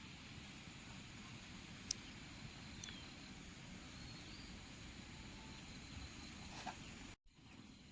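Faint, steady outdoor background hiss with a few sharp ticks and a couple of short chirps; the sound drops out for a moment near the end.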